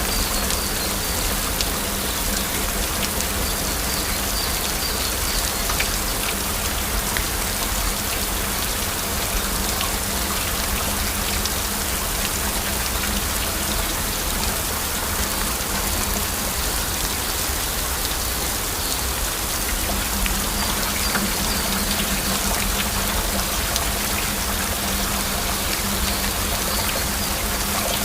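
Heavy rain falling steadily, a dense hiss of drops with scattered individual drops ticking through it.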